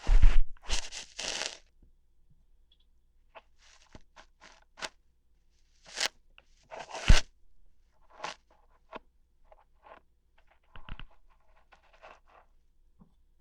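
ASMR ear-hair plucking, close up: irregular short crackling, tearing pulls. The loudest cluster comes right at the start and another about six to seven seconds in, with softer scattered crackles between.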